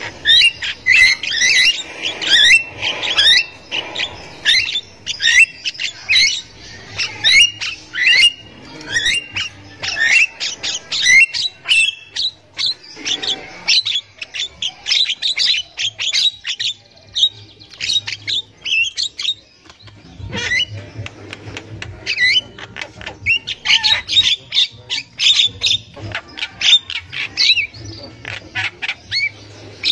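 Javan mynas calling rapidly: dense runs of short, sweeping, chattering notes, with a lull of a few seconds a little past halfway.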